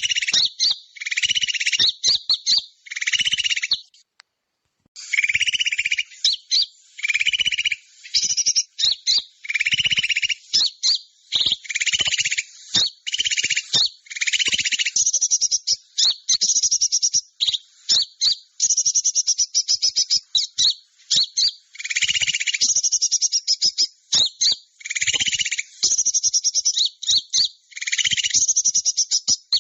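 Bird-luring call track: small songbirds' high, rapid chattering trills and chirps, repeated in short phrases with a brief break about four seconds in.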